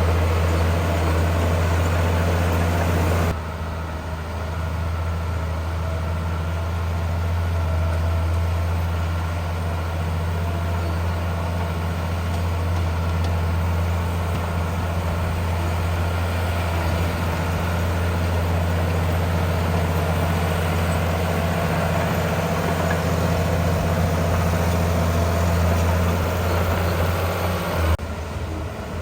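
Heavy diesel engine of earthmoving machinery running steadily with a deep, even hum, the sound shifting abruptly about three seconds in and again near the end.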